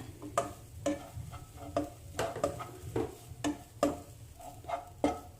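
Grated coconut being stirred as it dry-roasts in a heavy-bottomed pan with no oil, the stirring utensil scraping and knocking against the pan about twice a second, with a light sizzle as the coconut's moisture cooks off.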